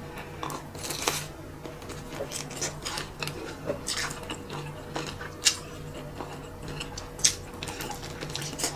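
Close-up eating sounds of biting into and chewing crispy fried buffalo chicken wings: wet crunches and mouth clicks, with two louder, sharper crunches in the second half.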